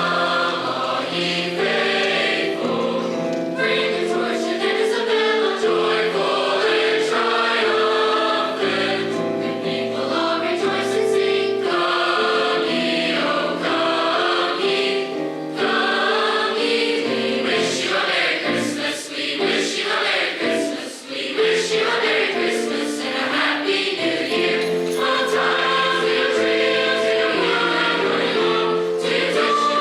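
High school choir singing a Christmas song in full voice, many voices holding chords together.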